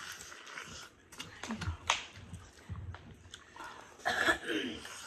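Close-miked eating: people biting and chewing corn on the cob and seafood, with sharp wet mouth clicks and smacks and a few short grunts or hums.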